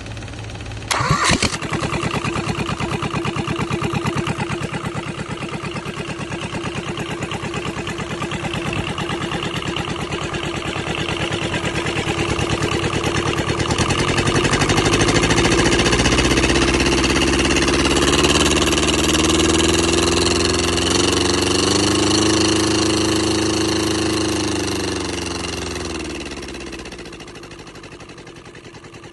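Kubota Z482 two-cylinder diesel engine, with a sharp burst about a second in, then running with a steady even beat. Its speed rises from about halfway, holds high for several seconds, then winds back down near the end.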